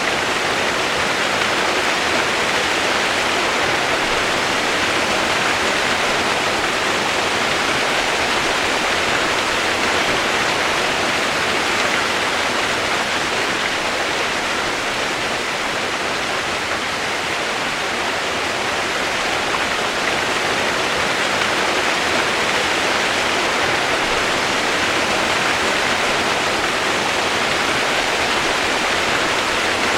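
Steady rain noise: an even, unbroken hiss, brightest in the upper-middle range, with no separate drops, thunder or other events.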